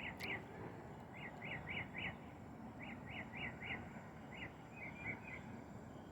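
A bird calling in short runs of three or four quick chirps, the runs repeating every second or so over a steady outdoor background hiss. A faint steady high tone runs underneath.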